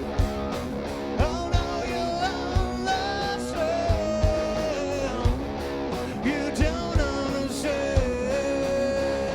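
Live rock band playing a song with a steady drum beat and guitars. A long held melodic line bends between notes over the top.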